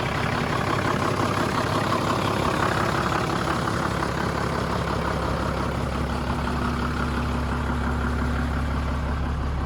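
Toyota 12H-T 4.0-litre turbocharged inline-six diesel idling steadily and smoothly, at an idle low enough to leave the turbo and battery warning lights on.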